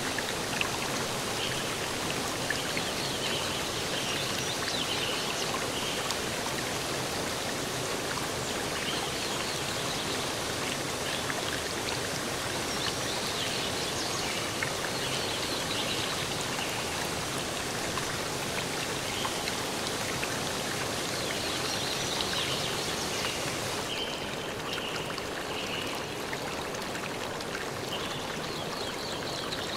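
Steady rushing of a forest stream, with short high chirps scattered over it. About 24 s in, the hiss loses its highest part and sounds a little duller.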